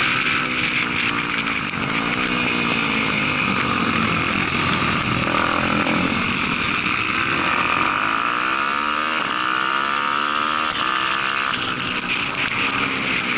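Daytona 190 single-cylinder four-stroke pit bike engine at race pace, heard from onboard, its revs climbing and dropping again and again.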